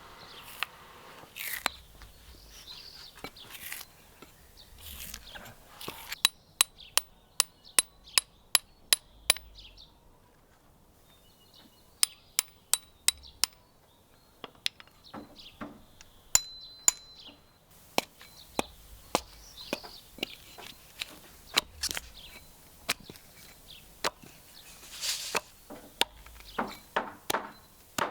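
A series of sharp taps and clicks, in places a steady run of about two a second, some with a short high ring.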